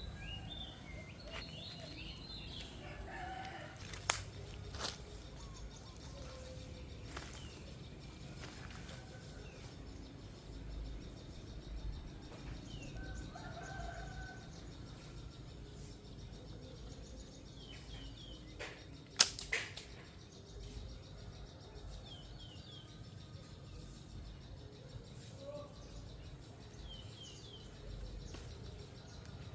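Small birds chirping in short, falling calls, with a few sharp snaps: two about four and five seconds in, and the loudest a little past halfway.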